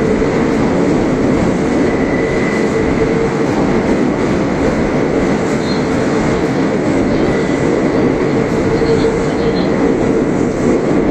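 Kintetsu electric train noise: a loud, steady rumble with a constant hum and a faint higher whine.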